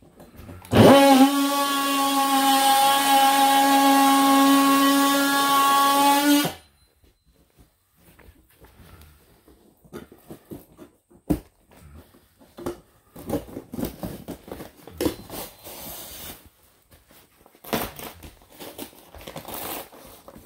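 Electric power saw starting about a second in with a quick spin-up, running steadily at one pitch for about six seconds and stopping suddenly. Scattered light knocks and clatter follow, from handling the cut pieces.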